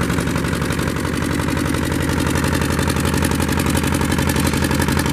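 Lister two-cylinder diesel engine of a 7 kVA generator set running steadily at constant speed, with an even, rapid beat of firing pulses that does not change.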